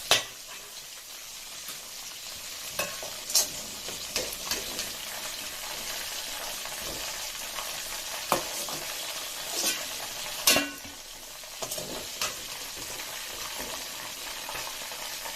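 Chicken wings deep-frying in hot oil, a steady sizzle, with a few sharp clicks and knocks of a utensil against the pan as the browned wings are lifted out.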